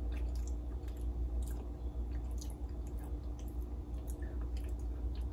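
A person chewing a mouthful of soft, hot chocolate chip cookie, with faint scattered wet mouth clicks and squishes over a steady low hum.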